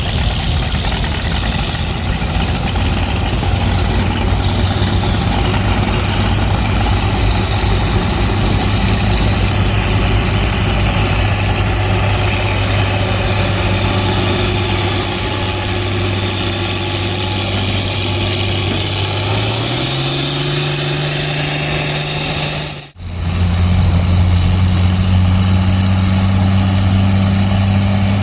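Pulling tractor's diesel engine running steadily. It rises in pitch about twenty seconds in, cuts out for a split second a few seconds later, then settles back to a steady lower drone.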